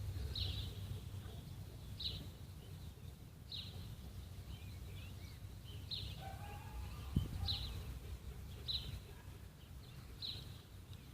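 A bird calling repeatedly, a short high call about every second and a half, over a steady low rumble of wind on the microphone. There is a brief twittering song about six seconds in, and a single knock just after seven seconds.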